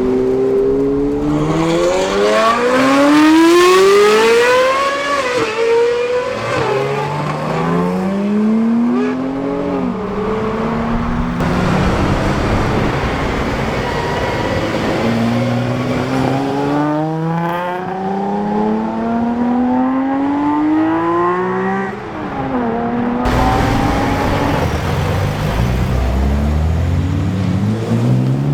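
Supercar engines accelerating hard one after another. Each climbs steadily in pitch through the gears, drops sharply at each upshift, then climbs again.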